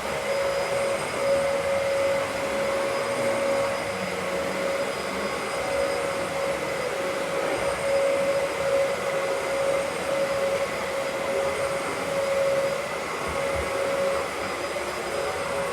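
Vacuum cleaner running steadily, its motor giving a constant whine over a rushing airflow noise as it sucks up dust from the floor.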